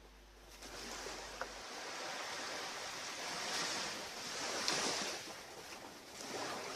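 Surf washing onto a beach: an even rushing hiss that swells and eases, loudest about three and a half and five seconds in.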